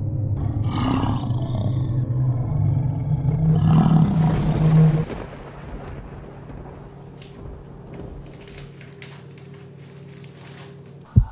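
Monster-roar sound effect over a loud low rumbling drone, with two roars swelling up about one and four seconds in; the drone cuts off suddenly about five seconds in. After that, a quiet low hum with faint paper rustling and light clicks.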